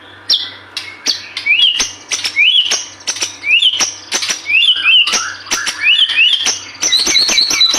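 White-rumped shama singing: a quick rising-and-falling whistled phrase repeated about once a second, mixed with sharp clicking notes, and breaking into a fast run of high notes near the end.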